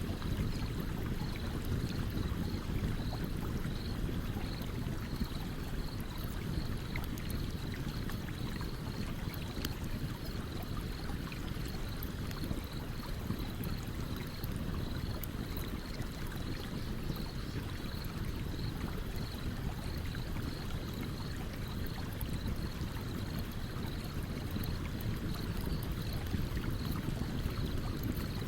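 Stream water running steadily, with the faint crackle and pops of a campfire over it. A soft high chirping pulses a few times a second throughout.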